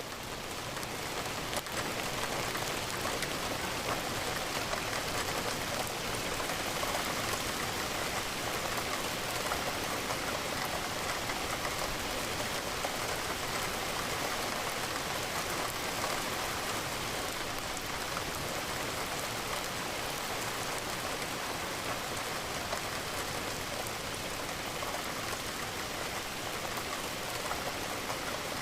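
Steady rain falling, a dense, even patter of drops that holds unchanged throughout.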